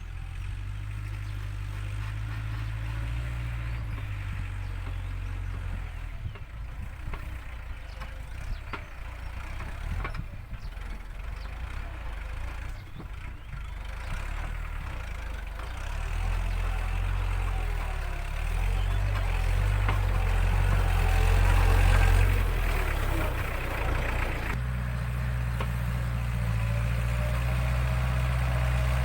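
Iseki NT554 tractor's diesel engine running under load while it pushes and levels soil, its note shifting and growing louder about halfway through, with a change in engine pitch near the end. A faint higher whine sits over the engine in the last few seconds.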